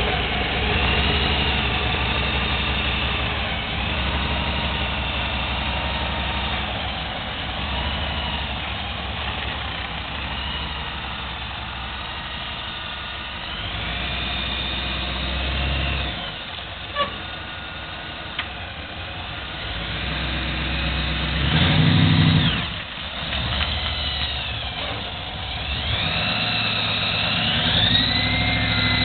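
Six-wheeled Ford hot rod's engine running as the car drives, its pitch rising and falling with the throttle, with a louder rev about two-thirds of the way through. Two short sharp clicks come in the middle.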